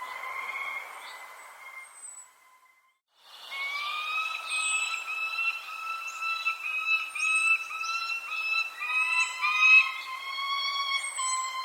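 Birds chirping and calling, with short high chirps over a sustained, wavering whistle-like tone. The sound cuts out for about a second early on, then resumes.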